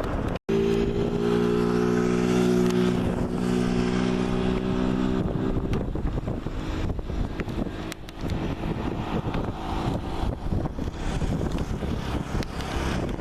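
Jet engines of a Boeing 737 MAX 8 (CFM LEAP-1B turbofans) running, with a steady droning hum of several tones for about five seconds after a brief cut about half a second in, then a broad rumble with wind on the microphone.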